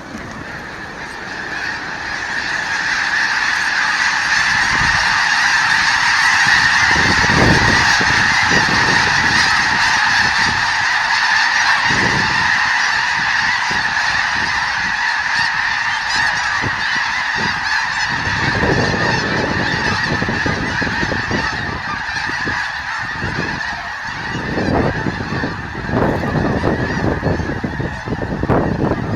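A huge flock of snow geese honking in a dense, continuous chorus as they take off en masse in a dawn 'blastoff'. The calling swells over the first few seconds and then holds loud, with occasional low rushing bursts.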